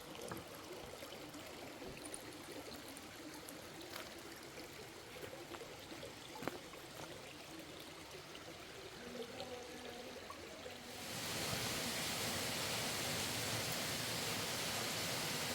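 Stream water flowing, with a few small knocks; about two-thirds of the way through it abruptly becomes a louder, steady rush of water.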